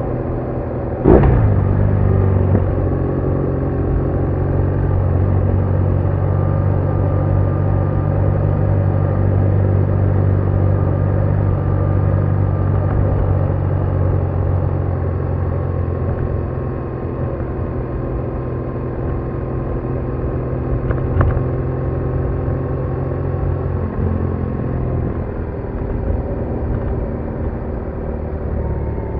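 BMW R1200R boxer-twin engine running steadily at road speed under the rider, with wind and road noise. About a second in, a short loud whoosh falls quickly in pitch. Near the end the engine note eases off and drops lower.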